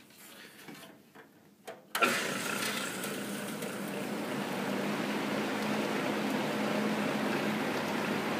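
Vintage Rex belt-driven window exhaust fan switched on about two seconds in, with a click and a sudden start, then spinning up to a steady run: a low hum under the rush of air from the blades. It runs on a temporary link belt and new sleeve bearings on the fan shaft, and its motor sounds rough, which the owner puts down to worn thrust washers or motor bearings.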